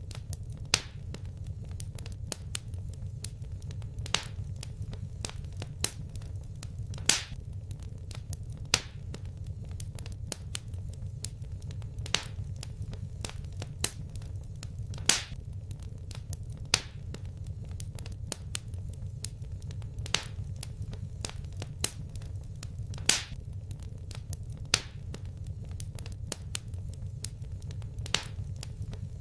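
Wood fire in a fireplace crackling: sharp single pops every one to three seconds over a steady low rumble.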